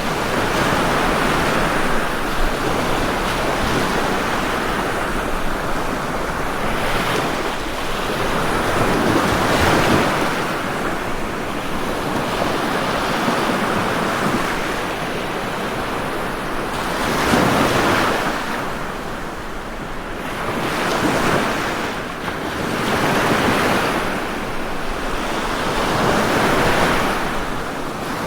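Ocean waves breaking and washing on the shore, a steady rush that swells every few seconds as each wave comes in.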